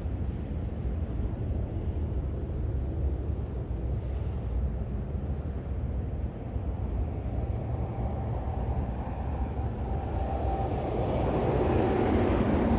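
Highway traffic rumbling steadily, with a truck approaching and growing louder toward the end. A faint steady tone rides over the tyre noise as it nears.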